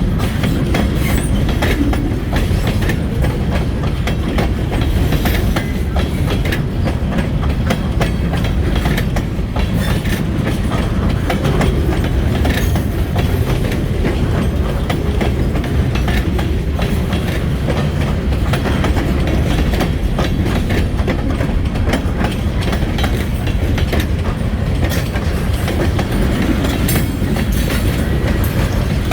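Freight train cars rolling past close by: a steady low rumble with wheels clicking over the rail joints.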